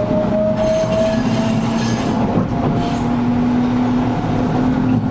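Interior running sound of a Gakunan Railway 7000 series electric car pulling away from a station: a motor hum rising slowly in pitch over the rumble of wheels on rail, with a few wheel clicks and the air conditioning running.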